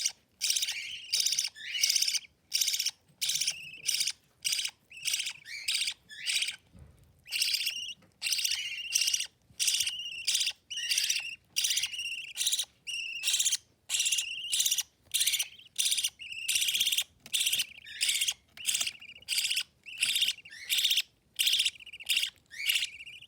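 Budgerigar chicks, 18 to 27 days old, giving food-begging chirps while being fed by their mother: short calls repeated about twice a second, with a brief pause about seven seconds in.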